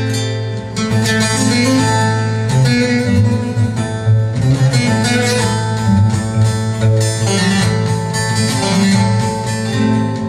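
Bağlama and guitar playing an instrumental passage of a Turkish folk song together: a quick plucked melody over a strummed and plucked accompaniment.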